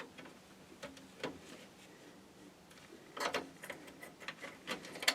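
Faint scattered clicks and light rattles of power-supply cables and plastic connectors being handled and fed through a computer case, thickening into a quick run of clicks about three seconds in and again near the end.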